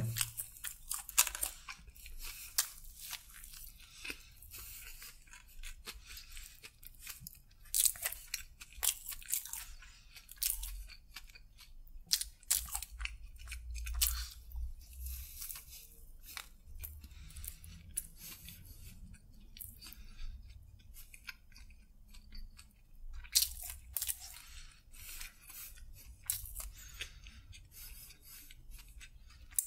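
Close-miked chewing of a bread-and-chicken sandwich: many small crisp crunches and wet mouth sounds, with louder bursts of crunching now and then.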